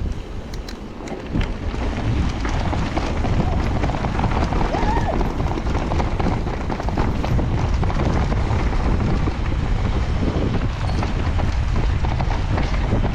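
Mountain bike rolling over a rough trail, with constant rattling and clicking from the bike, and heavy wind buffeting the microphone.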